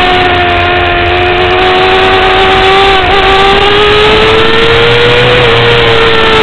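2009 Kawasaki ZX-6R's inline-four engine running at high revs under load, heard onboard at speed. Its pitch holds and eases slightly, then climbs steadily from about halfway through, with a brief dip near the end.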